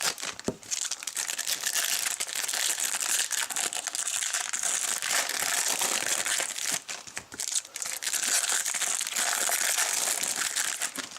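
A trading-card pack wrapper being torn open and crinkled by hand: a continuous crackling rustle with short pauses.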